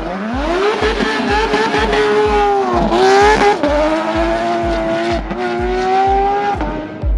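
A high-revving car engine climbs sharply in pitch, holds at high revs, dips briefly and climbs again, then cuts off near the end. It plays over electronic dance music with a steady kick drum beating about twice a second.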